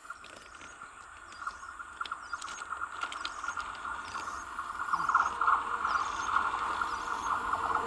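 Electric multiple unit train approaching on a curve, the rasping noise of its wheels on the rails growing steadily louder. A faint high chirp repeats about once a second.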